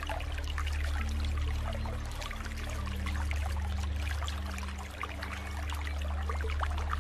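Steady rain, a dense patter of many small drops, over soft held low music notes that shift pitch about a second in and again near three seconds in.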